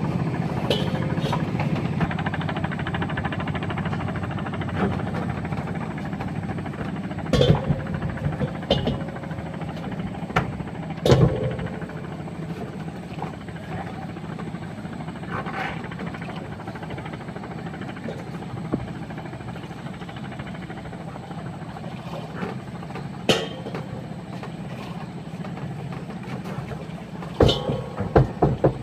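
A steady low rumble, as of a running vehicle, with a few sharp knocks and clunks scattered through it.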